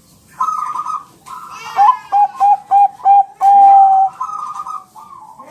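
Zebra dove (Bangkok-type perkutut) song: rapid trilling coos, then four short clipped coos and one long held coo, the loudest note, followed by another short trill.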